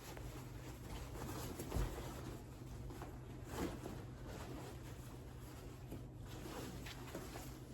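Faint rustling and handling noises with a couple of light knocks, over a low steady hum.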